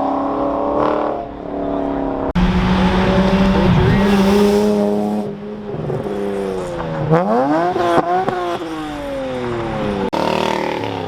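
Performance car engines accelerating hard as cars leave, with the engine pitch holding, dipping and climbing steeply through the revs. The sound breaks off sharply twice, as if spliced between different cars.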